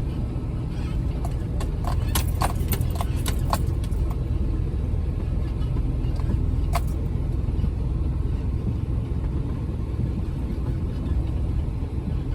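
Jeep Wrangler rumbling along at a slow crawl over a snowy off-road trail, with a quick run of clicks and knocks about two to three and a half seconds in and one more knock near seven seconds.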